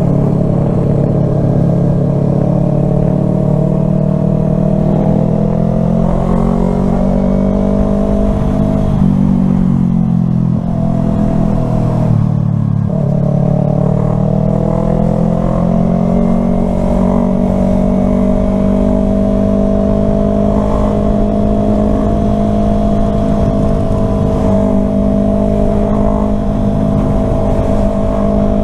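Yamaha R3 motorcycle engine running under way, its pitch climbing slowly, dropping twice around ten and twelve seconds in, then rising again and holding steady. Low wind rumble on the microphone underneath.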